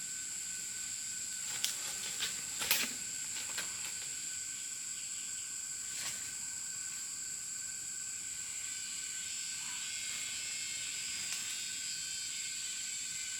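Steady high-pitched insect drone over a constant hiss, with a few light clicks or snaps in the first few seconds.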